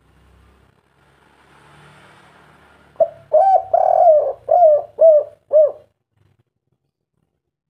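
Spotted dove (tekukur) of the 'kuk 3' song type cooing. About three seconds in comes one phrase of low coos, a drawn-out middle note and then three short 'kuk' coos, after a stretch of faint hiss.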